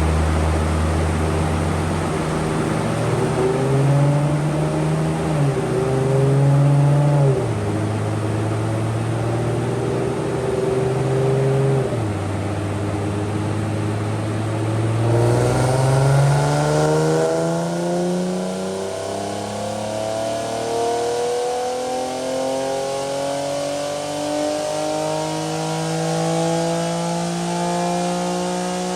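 Nissan 370Z's 3.7-litre V6 running under load on a chassis dyno. Its revs step up and down for about the first half, then climb smoothly and steadily through the second half, as in a dyno pull.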